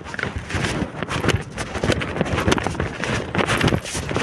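Irregular footsteps and knocks, with strong wind buffeting the microphone.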